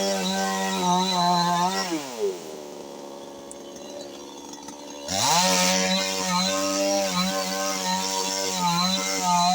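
Two-stroke chainsaw running at full throttle, dropping to idle about two seconds in, then revving back up to full speed about three seconds later and running on steadily.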